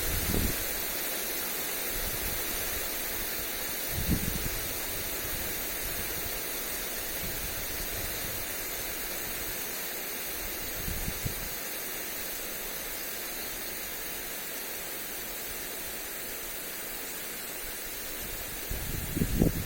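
Lawn sprinkler spray hissing steadily on the grass, with brief gusts of wind buffeting the microphone about four and eleven seconds in and again near the end.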